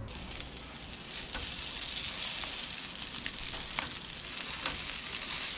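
Breaded crab cakes frying in a skillet: a steady sizzle that starts abruptly and grows a little louder, with a few sharp pops of spitting fat.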